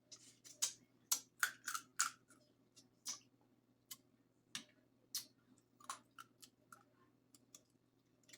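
Crab-leg shells being cracked and snapped apart by hand: a run of sharp, irregular cracks, several close together in the first two seconds, then sparser snaps.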